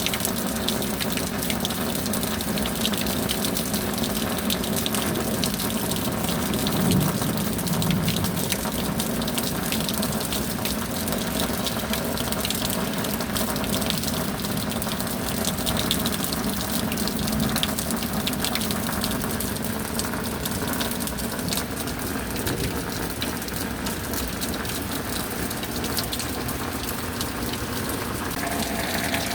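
Steady rain falling, a dense patter of drops over an even rushing wash, with a faint steady hum underneath.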